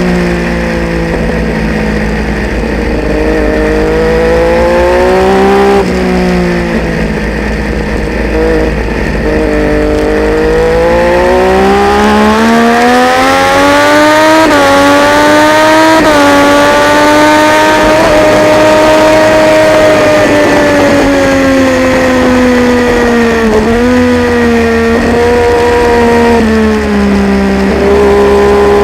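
Triumph Daytona 675's inline-three engine at race pace, its pitch rising and falling through the gears with quick steps at the shifts. The revs climb for several seconds from about a third in, hold high, then ease off and drop with a downshift near the end. Low wind rumble runs underneath.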